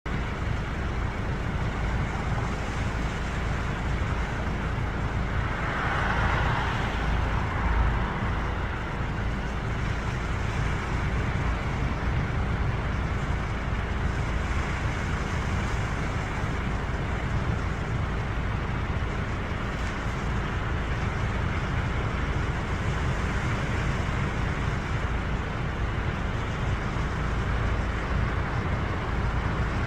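Sea waves washing onto the shore in a steady surf, with one louder wave breaking about six seconds in.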